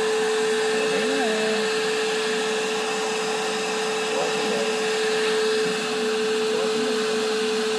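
Vacuum cleaner motor running steadily with a constant whine. It has power again after being plugged into a different outlet through an extension cord.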